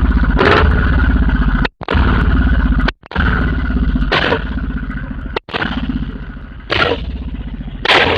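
Royal Enfield Bullet motorcycle engine running with a rapid, heavy low thumping that cuts out abruptly three times. Short harsh bursts sound over it about four times, in the manner of the firecracker-like exhaust pops the title points to.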